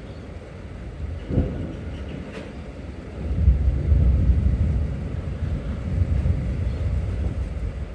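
Thunder rumbling: a short crack about a second and a half in, then a louder, long low rumble from about three seconds in, over the steady hiss of the storm.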